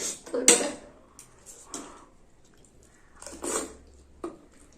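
Eating sounds: cutlery and plates clinking as two people start on momo dumplings and spicy instant noodles, with a few short noisy bursts near the start and again about three and a half seconds in.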